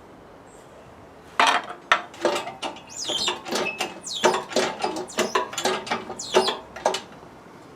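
A run of irregular sharp metallic clinks and clatters from hand tools being handled. It starts about a second and a half in and stops near the end.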